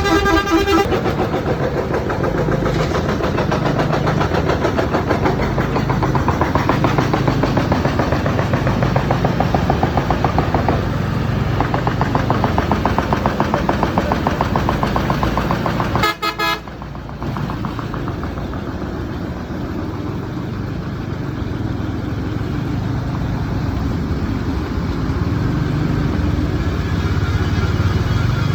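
Ride noise on a TVS Ntorq scooter: the engine running with wind and road noise, fluttering fast for much of the time. A vehicle horn sounds at the very start and again briefly about sixteen seconds in.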